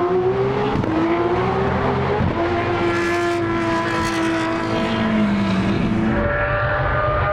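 Race car engine under hard acceleration, its note climbing and dropping back at upshifts about one and two seconds in, then holding steady.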